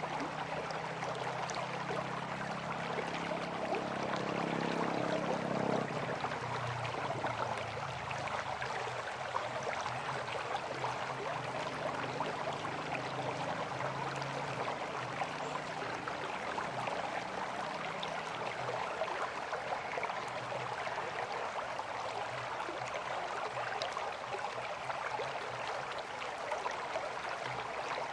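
River water flowing and rushing steadily. A low droning hum with several steady tones rises slightly and then stops abruptly about six seconds in.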